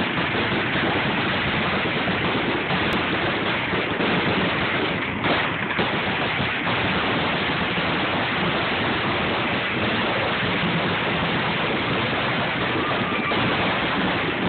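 Fireworks finale barrage: bursts and crackles fired so quickly that they merge into one continuous, loud noise.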